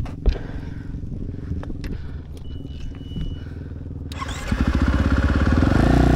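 KTM 450 Rally Replica's single-cylinder four-stroke engine ticking over, then about four seconds in the throttle is opened and the engine gets louder, its revs rising and falling.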